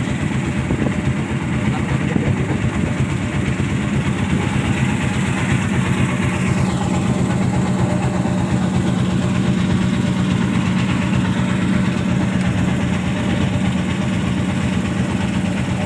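Ship's engine running with a steady low drone.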